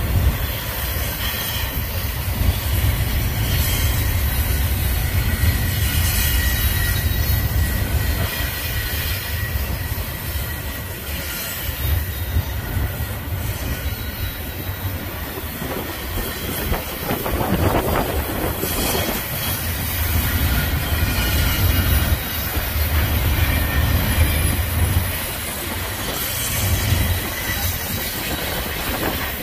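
Double-stack intermodal container well cars rolling past on the rails: a steady low rumble of steel wheels, clicks as they pass over rail joints, and a thin high wheel squeal now and then.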